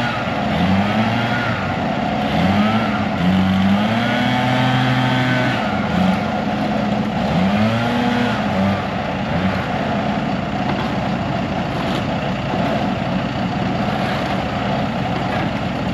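Engine of the tree-removal equipment revving up and down several times over the first nine seconds or so, then running steadily.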